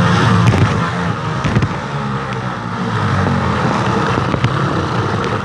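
Bicycle with a bottle tied to the front wheel being ridden, the bottle slapping against the spokes in a fast steady buzzing rattle meant to imitate a dirt bike engine.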